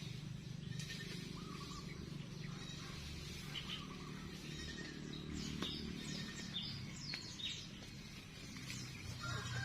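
Small birds chirping: a run of short, quick calls, mostly in the second half, over a steady low background noise.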